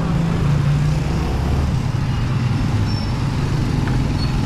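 Street traffic noise with a motor vehicle engine running close by, a steady low hum; its deepest note drops away a little under two seconds in.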